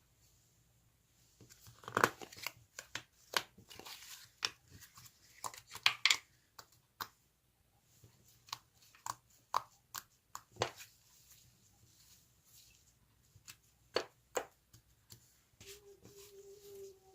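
Slime being handled by hand, giving irregular sticky clicks, pops and crackles, busiest in the first half and sparser later.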